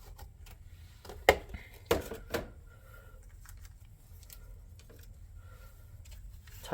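A few sharp clicks and knocks from handling a cardboard model box and its foam packaging, the loudest about a second and two seconds in, with faint squeaks later.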